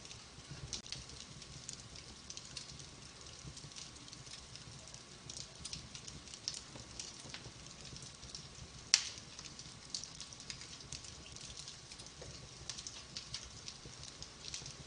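Wood fire in a fireplace crackling, with a steady stream of small pops and one sharp, loud pop about nine seconds in.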